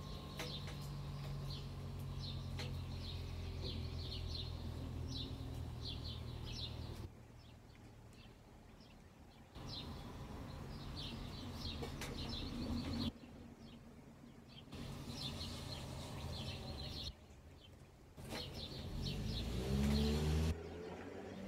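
Small birds chirping outdoors in short repeated high calls, over a steady low background hum. Near the end there is a brief, louder handling sound close to the microphone.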